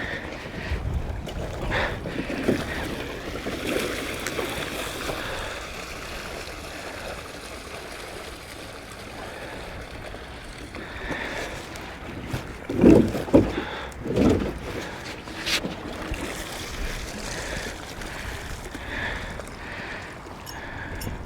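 Wind buffeting the microphone in a steady low rumble, with a few loud thumps about two-thirds of the way through.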